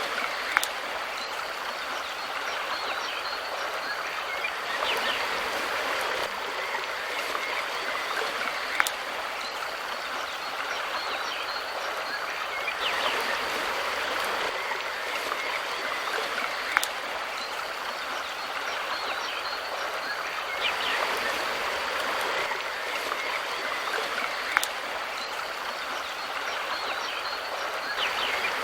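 A mountain river's water rushing and burbling steadily, with a short sharp click that recurs about every eight seconds.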